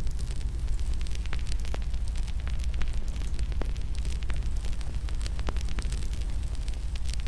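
Wood fire burning in a fireplace: a steady low roar with frequent irregular crackles and snaps.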